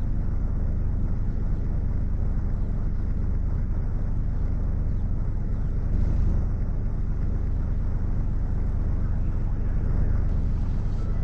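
Steady low rumble of a vehicle, with wind noise on the microphone.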